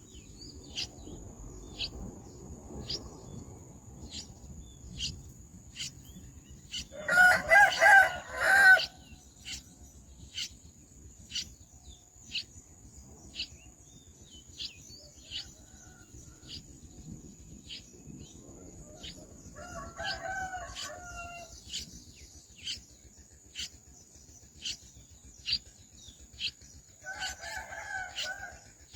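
A rooster crowing, one loud crow of about two seconds early on and two fainter crows later. Short high chirps repeat steadily throughout over a steady high-pitched tone.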